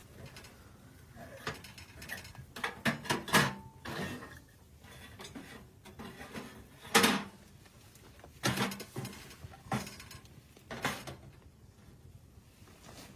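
Irregular knocks, clinks and clatters of hard objects being handled. There is a quick cluster of them about three to four seconds in, a single sharp knock about seven seconds in, and a few more spaced-out knocks after that.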